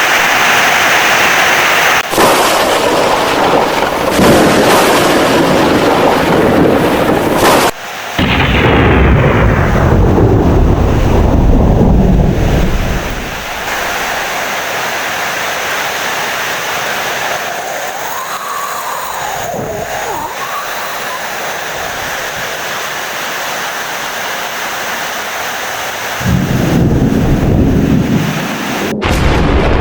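Thunderstorm: long rolls of heavy thunder over steady rain. The thunder dies away about thirteen seconds in, leaving steady rain, and a new rumble of thunder builds again near the end.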